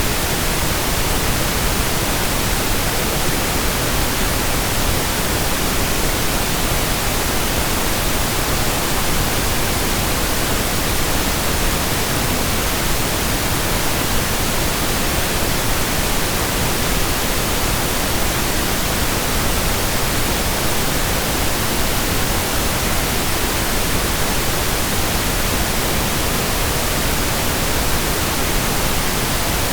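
Steady pink noise: an even, unchanging hiss spread from deep rumble to high pitches, with no tones or breaks.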